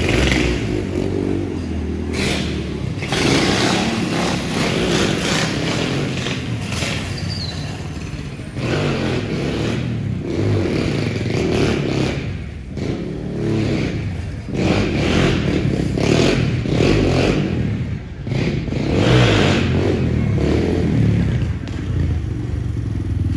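Motorcycle engines revving up and easing off again and again, in surges every second or two.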